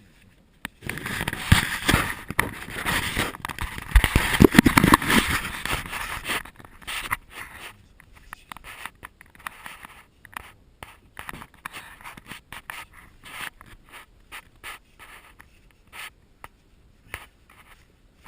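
Rough scraping and scuffing, dense and loud for the first several seconds, then thinning to scattered scrapes and clicks.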